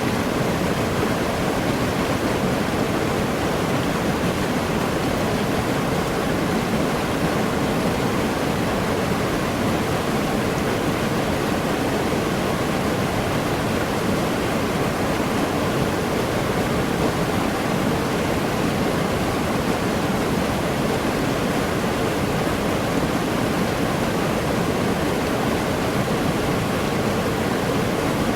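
Waterfall pouring steadily into a forest pool, a constant rushing of water.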